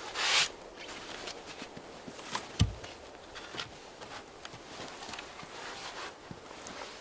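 Handling and scraping sounds of shelter building in the woods: a short scrape at the start, scattered rustles and small knocks, and one heavy dull thump about two and a half seconds in.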